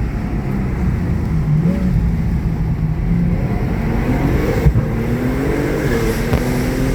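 Twin-turbo Porsche 911 flat-six heard from inside the cabin, running steadily and then pulling up through the revs under about half throttle from about four seconds in. A brief thump comes partway through the pull.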